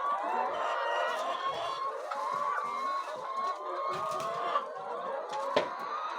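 A flock of chickens clucking and calling together, many birds at once in a continuous chatter, with one sharp click about five and a half seconds in.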